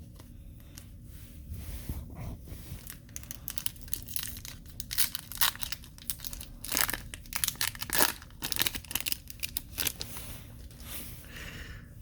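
A hockey card pack's wrapper being torn open and crinkled by hand: irregular crackling and tearing, busiest in the middle of the stretch.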